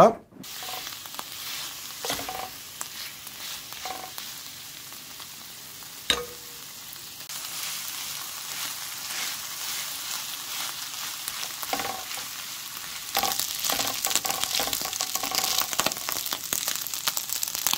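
Rice sizzling as it is stir-fried with leftover pork belly and kimchi in a wide pan, a wooden spatula scraping and turning it, with a few knocks. The sizzling and scraping get louder about thirteen seconds in.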